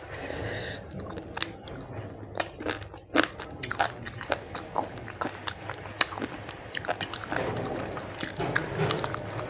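Close-miked eating: irregular wet clicks and crunches of a person biting and chewing mouthfuls of rice and fish curry eaten by hand.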